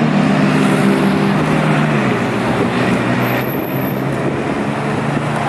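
McLaren 570S twin-turbo V8 driving away with a steady engine note that drops in pitch about two seconds in, over background traffic.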